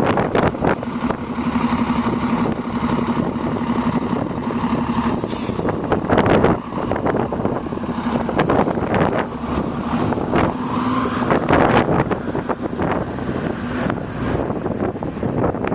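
A motor vehicle's engine running with a steady low hum that fades out and returns, under a rushing noise with many short crackles, typical of wind on the microphone.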